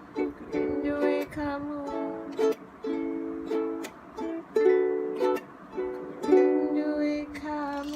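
Ukulele strummed and picked in chords, rhythmic and without singing: the instrumental close of a ukulele cover.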